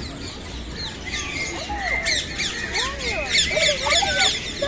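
Many birds calling together, a mix of high chirps and harsher squawks, with a dense run of rapid chirps from about two seconds in.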